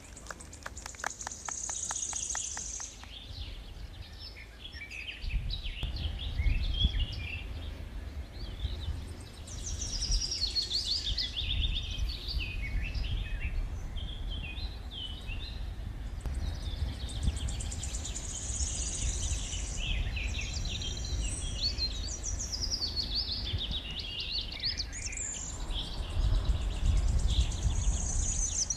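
Several songbirds singing and chirping, with short twittering and trilling phrases one after another, over a low rumble that swells about a fifth of the way in and again near the end.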